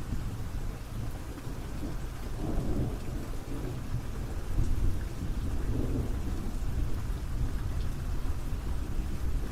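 Steady rain falling, under a low, continuous rumble of thunder that swells twice.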